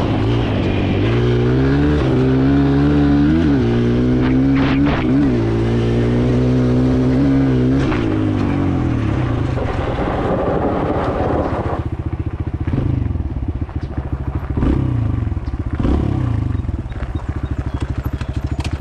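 Kawasaki KLX140L dirt bike's single-cylinder four-stroke engine under throttle, its pitch climbing and dropping several times as the rider works through the gears. About twelve seconds in the revs fall away to a lower, pulsing run.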